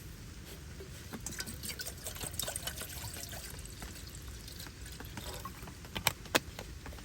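Water trickling and dripping with scattered small clicks and taps; two sharper clicks about six seconds in.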